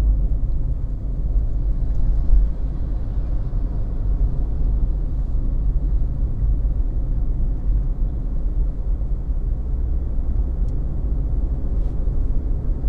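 Steady low rumble of a car driving along, engine and road noise heard inside the cabin.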